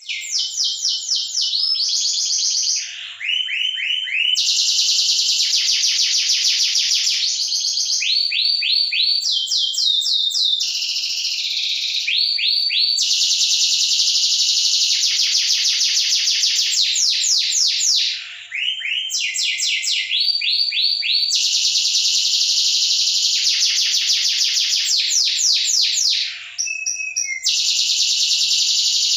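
Domestic canary singing a long, loud song of rapid trills and rolled phrases, fast repeated high-pitched notes changing abruptly from one trill to the next, with only brief breaks.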